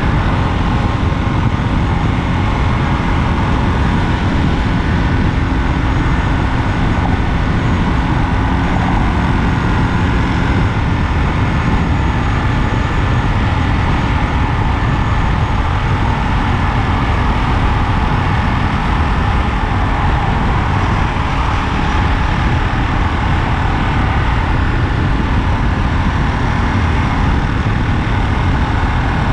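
Ducati Monster 937's 937 cc Testastretta V-twin running steadily at highway cruising speed, mixed with dense wind rush.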